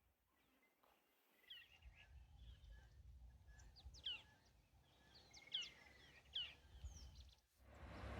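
Faint bird calls: a few short, sharp chirps sweeping down in pitch, scattered through, over a low rumble. A steady louder noise comes in near the end.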